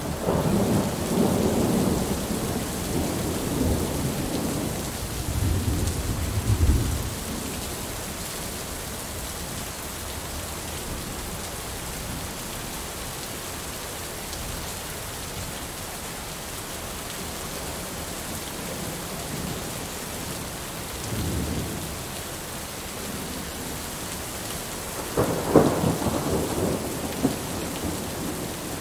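Steady heavy rain hissing throughout, with thunder: a long rolling rumble at the start lasting several seconds, a faint rumble about three-quarters through, and a loud sudden clap near the end that rumbles off over a couple of seconds.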